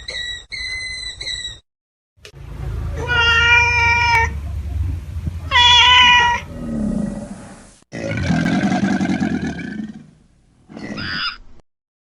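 A string of separate animal calls: a quick run of short, high squeaks, then two drawn-out cat meows, then lower, rougher calls and one short call near the end.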